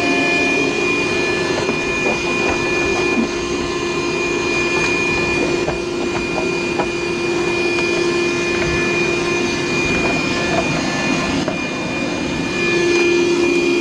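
Vacuum cleaner running steadily, a steady high whine over a lower hum.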